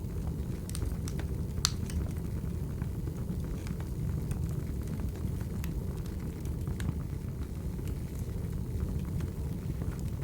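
Wood fire crackling: a steady low rumble of burning logs with scattered sharp pops and snaps, the loudest a little under two seconds in.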